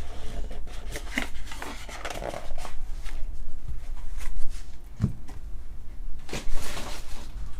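Trading cards and their packaging being handled: a run of soft rustles, slides and clicks, with a dull knock about five seconds in.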